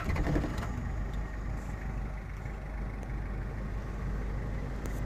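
Toyota 3CT 2.2-litre turbo diesel engine firing up right at the start and settling into a steady idle. It is very quiet for a diesel.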